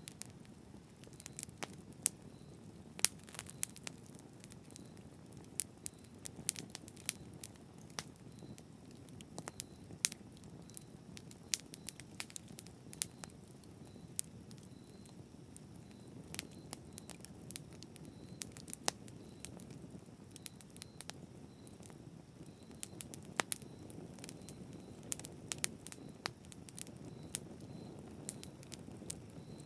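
Bonfire burning: irregular sharp pops and snaps of the wood crackling over a low, steady rumble of the flames.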